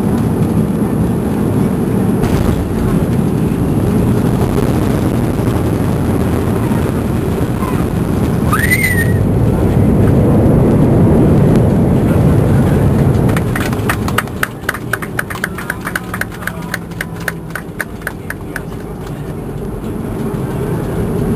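Cabin noise of a Boeing 737-300 on its landing roll: its CFM56 engines and the airflow make a loud rumble that swells to a peak and then drops away about thirteen seconds in as the jet slows. After that comes a fast, even train of knocks as the wheels roll along the runway.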